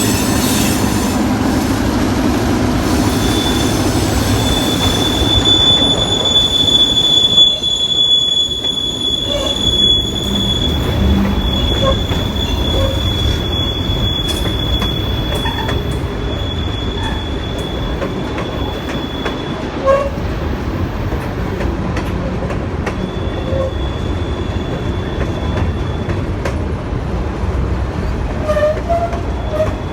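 Long freight train rolling past, its steel wheels squealing with a high steady tone for much of the time over the low rumble of the cars, with scattered small clicks from the wheels and couplers.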